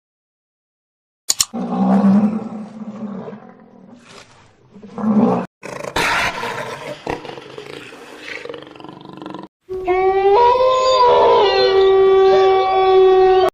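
A big cat's low, rough growling roars, in two stretches cut off abruptly, followed by a different animal's long pitched call that jumps up in pitch and drops back near the end.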